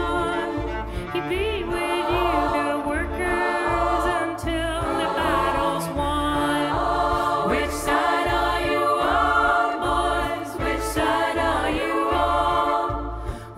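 Choir singing with cello accompaniment, voices in several parts over a low bass pulse.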